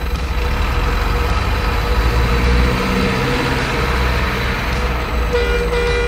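Heavy truck engine sound running steadily with a pulsing low rumble. A short tonal sound comes near the end.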